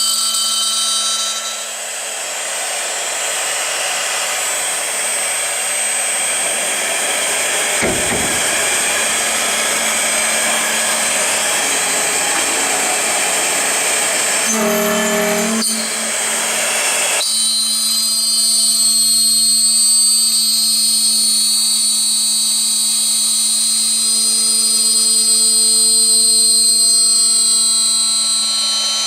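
CNC drilling-milling machine's spindle whining steadily at high speed, with harsher cutting noise as the tool works aluminium profile from about two seconds in until about seventeen seconds in. After that the spindle whine and a steady hum carry on alone.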